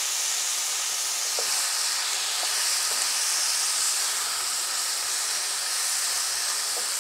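Chicken mince frying in a little oil in a wide pan, sizzling steadily, with a few faint ticks as a silicone spatula stirs it.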